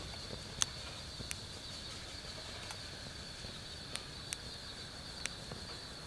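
Insects trilling steadily at night, with a wood fire in a camp fire pit crackling: a handful of sharp, scattered pops.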